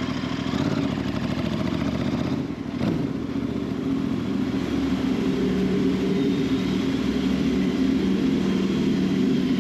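Royal Enfield cafe racer motorcycle engine running as the bike sets off. Its note dips briefly about two and a half seconds in, then holds steady.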